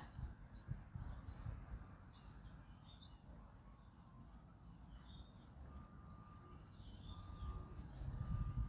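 Many small birds chirping and twittering, with wind rumbling low on the microphone that eases off after the first second and builds again near the end. A faint, repeated steady note comes in during the second half.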